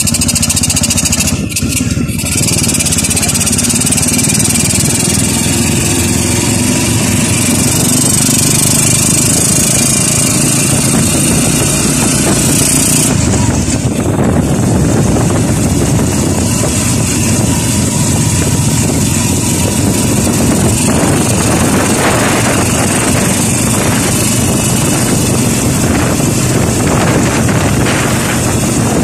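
Kawasaki motorcycle engine running steadily as its sidecar tricycle drives along, with wind rushing over the microphone; the hiss in the sound drops noticeably about thirteen seconds in.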